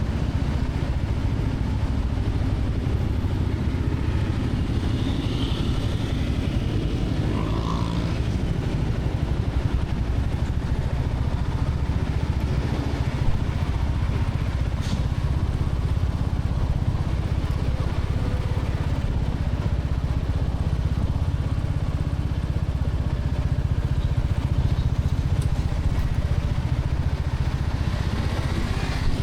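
Royal Enfield Classic 350's single-cylinder engine running steadily under way, at an even pace with no big revs.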